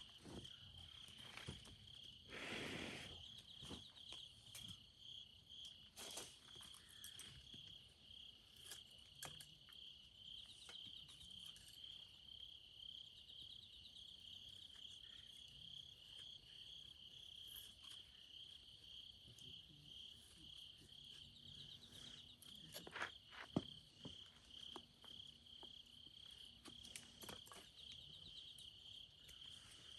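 Crickets chirping steadily in a fast pulsing trill, with scattered faint clicks and knocks, one a little louder about two-thirds of the way through.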